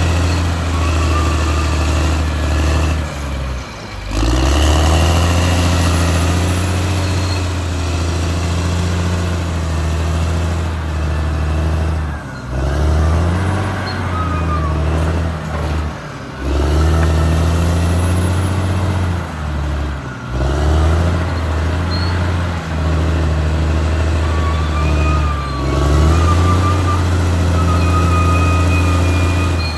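Caterpillar D6R XL bulldozer's diesel engine running under load, its sound dipping briefly and recovering about four times.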